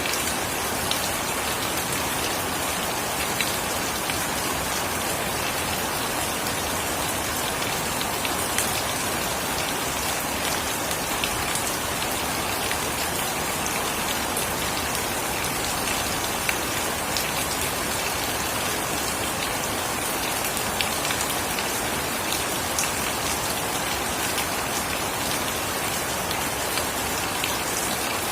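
Steady heavy rain falling on surfaces, a dense even hiss with scattered sharper drop ticks.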